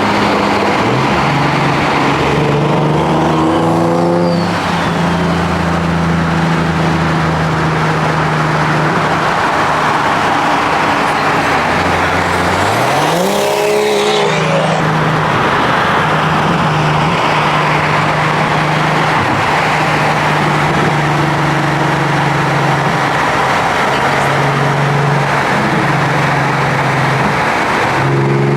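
Car engines running loud through open exhausts, revving up in rising sweeps twice, about two seconds in and again near the middle.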